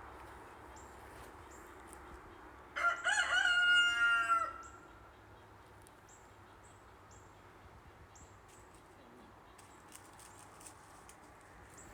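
A rooster crows once, about three seconds in, a call of just under two seconds. Faint, short, high chirps from a small bird come and go around it.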